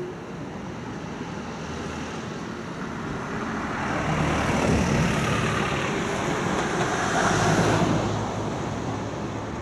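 A streetcar passing close by on a sharp curve: the running noise builds from about a third of the way in, is loudest through the middle and near the end, then fades a little.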